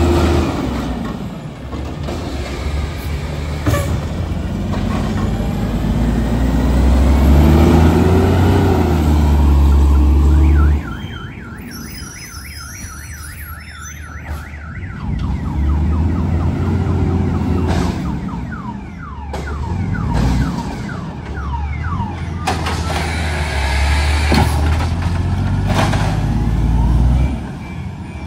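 Garbage truck's diesel engine revving up and settling back several times, dropping away suddenly about ten seconds in and again near the end. Through the middle stretch a fast repeating warbling tone runs over it, like a car alarm.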